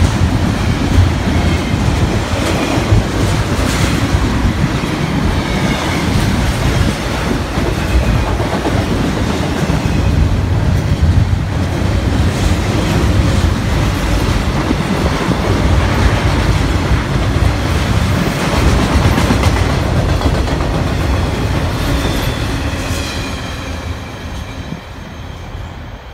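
BNSF intermodal freight train passing: double-stack container cars and trailer-on-flatcar cars rolling by with a steady heavy rumble and wheel clatter over the rail joints, and a faint wheel squeal at times. The sound fades over the last few seconds as the end of the train passes and moves away.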